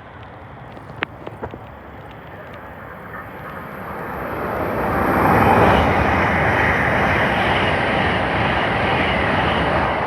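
LNER Azuma high-speed train (Hitachi Class 800-series) passing through the station at speed: a rushing noise that builds from about three seconds in and stays loud, with a few sharp clicks near the start.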